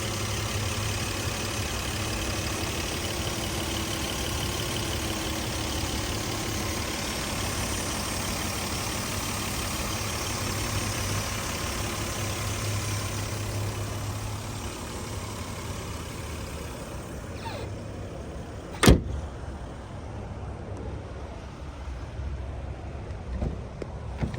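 2004 Lexus GS300's inline-six engine running steadily with a low hum and a wide hiss that eases off about two-thirds of the way through. A single sharp click about three-quarters of the way through is the loudest sound.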